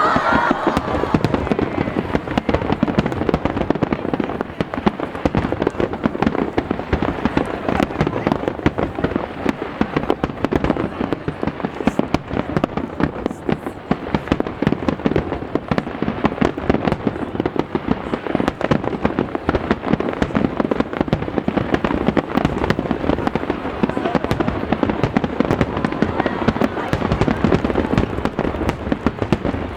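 Aerial fireworks shells bursting in a rapid, continuous barrage, bangs and crackles overlapping with no break.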